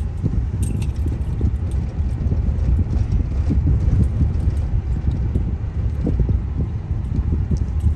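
Inside a moving car in slow traffic: a steady low road and engine rumble with scattered light clicks and rattles from the cabin.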